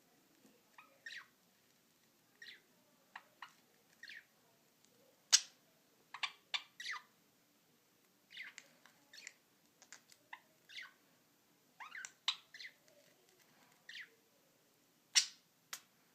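Two pet budgerigars giving short, scattered chirps and squawks while play-fighting, with two louder sharp calls, one about five seconds in and one near the end.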